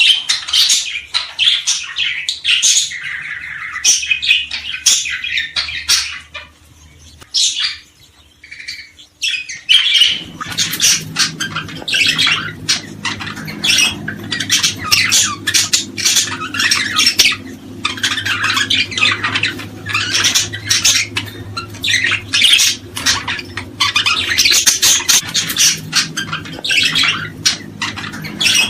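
Small birds calling rapidly and continuously, sharp chirps and squawks overlapping, with a brief lull about seven seconds in. From about ten seconds a low steady hum runs under the calls.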